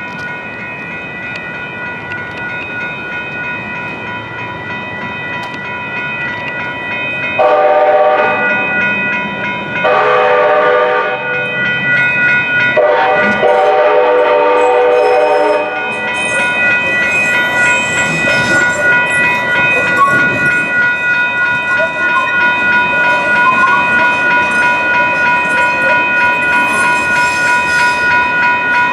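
Grade crossing warning bells ringing steadily while a train sounds its horn in three blasts, the last the longest. The train then rolls through the crossing with rail clatter and high-pitched wheel noise.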